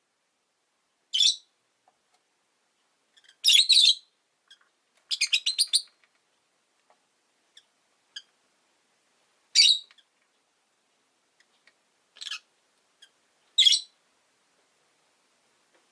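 Rosy-faced lovebirds calling: about six short, shrill chirps spaced a second or few apart, one of them a quick stuttering run of notes about five seconds in.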